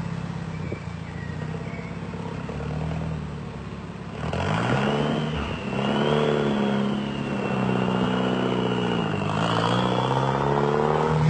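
VUL 05 supercar's engine running steadily, then from about four seconds in its pitch rises and falls several times as it is revved, with a thin high whine above it.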